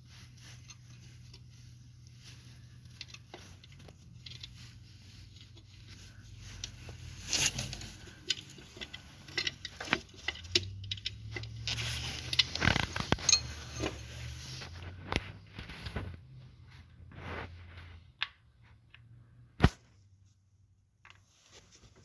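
Small metal clicks, clinks and scrapes of bolts being handled and fitted by hand into a car's water pump. They are busiest in the middle, with a single sharp click near the end.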